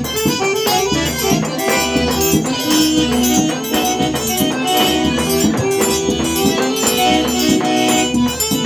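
Instrumental forró: an eight-bass button accordion playing the melody over a steady, driving rhythm with rattling, shaker-like percussion.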